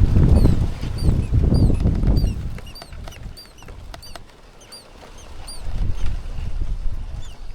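A small bird chirping repeatedly, short high chirps at about two a second that fade near the end, over low rumbling noise that is loudest in the first two and a half seconds.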